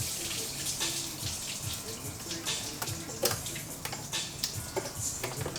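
Liquid, likely engine coolant, trickling and splashing out of an LS V8 as its cylinder head is lifted off, with scattered light clicks and knocks throughout.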